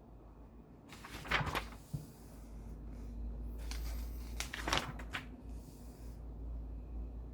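Two clusters of handling noises, knocks and rustling, about a second in and again around four to five seconds, like something being opened or moved, over a low rumble.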